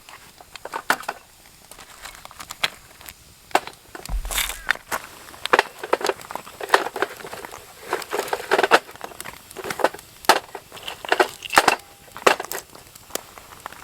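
Firewood snapping and crackling: irregular sharp cracks and snaps, some in quick clusters, as a campfire is started.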